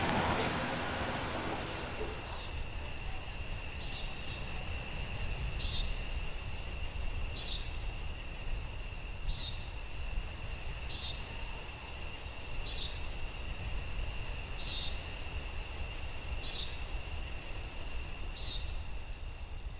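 Outdoor ambience: a steady high insect trill, with a short high-pitched chirp repeating roughly once a second, over a low rumble of wind or distant traffic.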